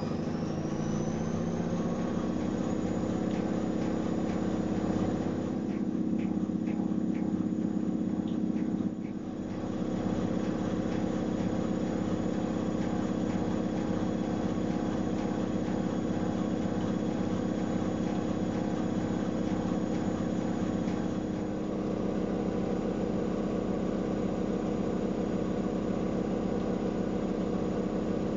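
AEG Öko-Lavamat 693 washing machine spinning its drum. The motor's high whine rises and levels off in the first couple of seconds, then holds a steady hum, with a brief dip about nine seconds in and a change of tone about twenty-one seconds in.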